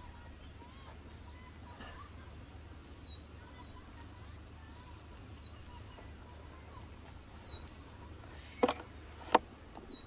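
A wild bird calling over and over, a short high whistle falling in pitch, five times about every two and a half seconds. Near the end two sharp knocks, the loudest sounds, as a loaded metal skewer is set down on a wooden board.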